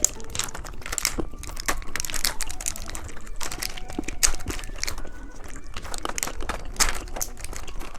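Candy wrappers crinkling close to the microphone, with crunching, in a dense, irregular run of sharp crackles.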